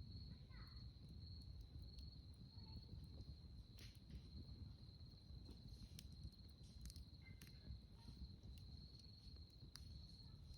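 Faint, steady, high-pitched trill of night insects, one continuous tone. Scattered small crackles and pops from a campfire sound over a low rumbling background.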